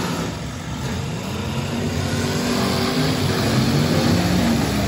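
Several eight-cylinder demolition derby cars running and revving at once, their engine notes rising and falling in pitch.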